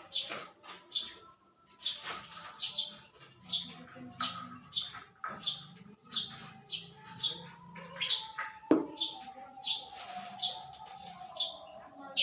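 Small birds chirping repeatedly, short sharp high chirps at about two a second, with a single knock about two-thirds of the way through.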